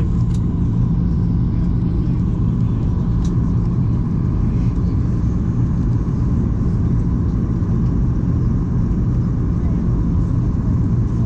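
Steady cabin noise inside a Boeing 737-800 airliner in flight: a deep rumble of its CFM56 engines and the airflow, with a faint steady tone above it.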